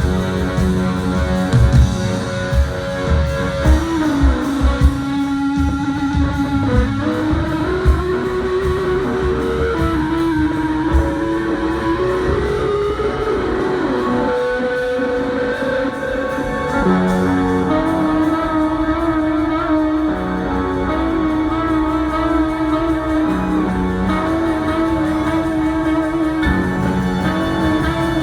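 Live rock band playing, led by electric guitars: drum hits in the first several seconds, then a sustained, drifting guitar melody over steady chords.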